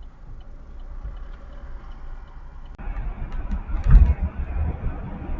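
Car road and engine rumble, recorded on a dashcam. It changes abruptly to a louder, fuller noise a little under three seconds in, and there is a loud low thump about a second later.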